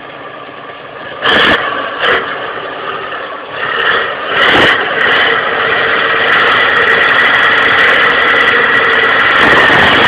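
Tractor engine running, two short loud bursts about a second in, then growing louder about four seconds in and holding steady.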